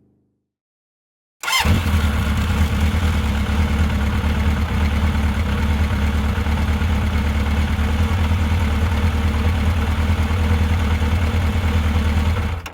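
A vehicle engine idling steadily, with a deep even note. It starts abruptly about a second and a half in and cuts off suddenly at the end.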